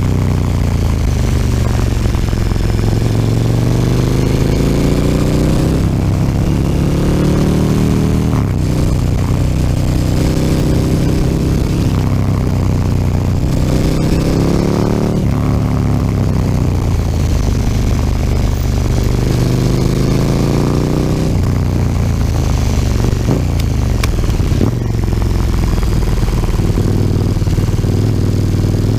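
KTM 1290 Super Duke R's big V-twin breathing through an Akrapovic slip-on exhaust under riding load, its note climbing in pitch again and again as it pulls and falling back as the throttle closes or a gear is changed, with a sharp drop about eight seconds in.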